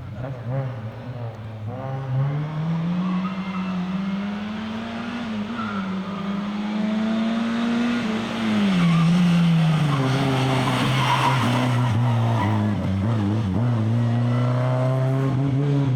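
Lada 2107 rally car's four-cylinder engine under way at speed. The revs rise over the first few seconds and hold, drop about eight seconds in, then stay steady at a lower pitch.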